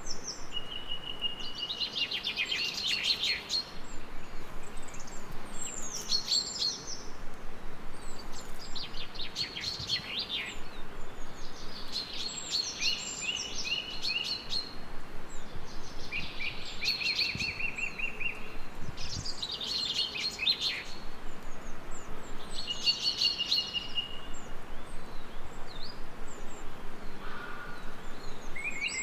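A songbird singing the same short phrase over and over, about eight times, with a few seconds between songs; each song is a quick run of notes ending in a rapid trill. A steady hiss lies underneath.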